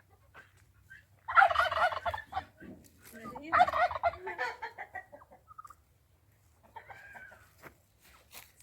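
Domestic fowl calling: two loud, rapid warbling calls about two seconds apart, then a fainter call near the end.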